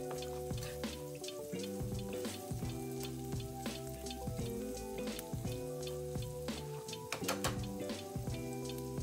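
Chopped onions sizzling and crackling in butter in a frying pan as a spatula stirs them, over background music of sustained chords.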